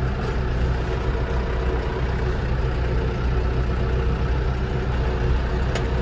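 New Holland tractor's diesel engine running steadily at an even speed, with a few light clicks near the end.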